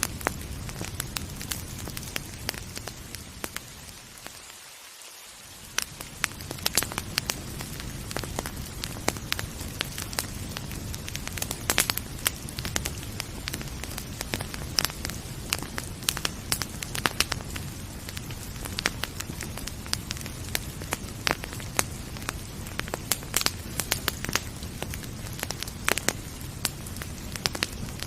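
Wood fire crackling, with frequent irregular sharp pops over a steady hiss of rain. The low rumble briefly fades away about five seconds in, then comes back.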